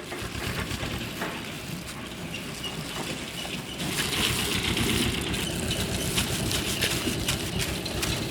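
Spring rolls deep-frying in hot oil: a steady sizzle with many small crackles, growing louder about four seconds in.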